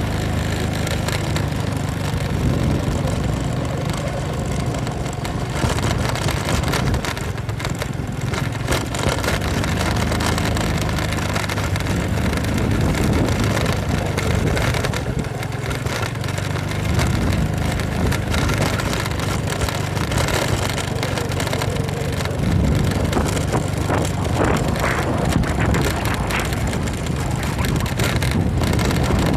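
Honda Supra X underbone motorcycle running while ridden, its engine note rising and falling with the throttle, with wind noise on the microphone.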